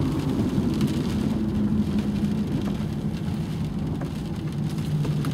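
Rain pattering on a car over the steady low hum of the car idling, heard from inside the cabin.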